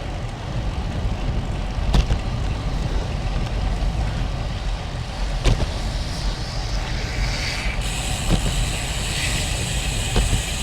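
Wind rushing over the microphone of a GoPro riding on a road bicycle, a steady low rumble with a few sharp clicks. A higher hiss joins in about eight seconds in.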